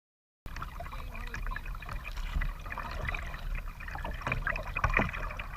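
Water splashing and dripping around a kayak as it is paddled: uneven small splashes and trickles that start abruptly about half a second in.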